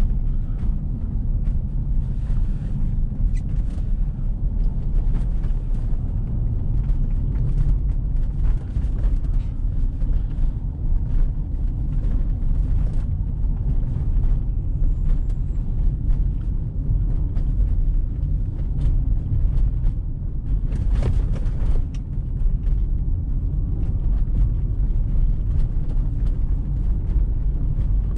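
Car driving on a snowy road, heard from inside: a steady low rumble of engine and tyres, with scattered small clicks throughout and one louder rushing swell a little after three-quarters of the way through.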